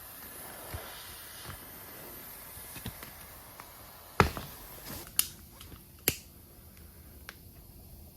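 A few scattered sharp clicks and knocks, the loudest about four seconds in, then two more about a second apart, over a faint hiss.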